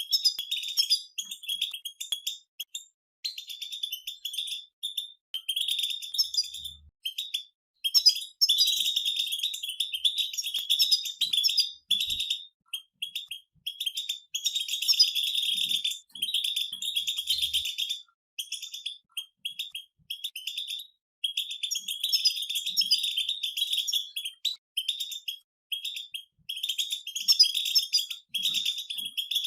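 Several European goldfinches singing together: fast, tinkling twittering phrases in bursts of a second or few, with short breaks between.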